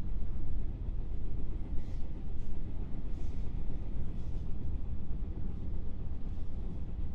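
Interior running noise of a JR West 221 series electric multiple unit, heard inside its motor car: a steady low rumble of wheels and bogies on the track, with a few faint hissing swishes.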